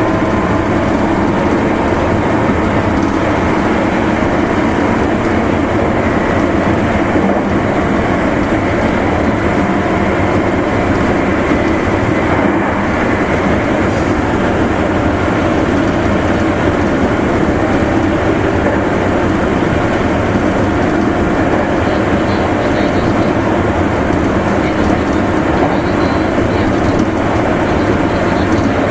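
Meitetsu limited express train running on the Nagoya Main Line: a steady rumble of wheels on rail and running gear.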